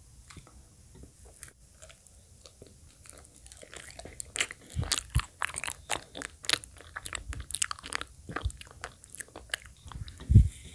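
Wet mouth sounds of a person chewing banana: faint scattered clicks at first, then from about four seconds in a dense run of wet smacks and clicks. A low thump near the end is the loudest sound.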